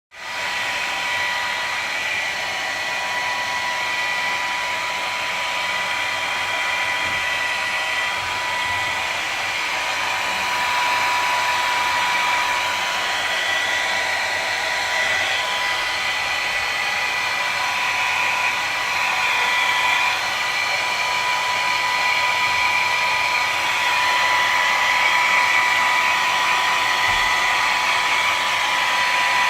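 Hair dryer running steadily, a constant whine from its motor over the rush of blown air, used to dry a cat's fur.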